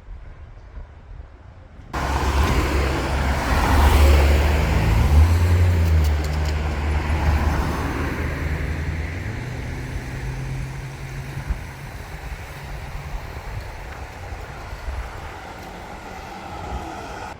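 A motor vehicle going past close by on a city street: low engine hum with tyre and road noise that starts suddenly about two seconds in, is loudest a few seconds later, then gradually fades away.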